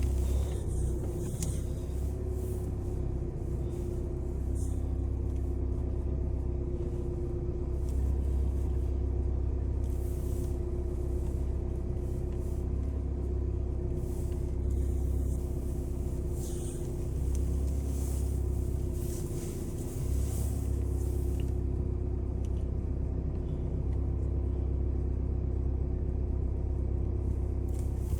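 Cabin noise of a 2015 Volkswagen Passat 2.0 L diesel being driven: a steady low rumble of engine and road with a constant hum over it.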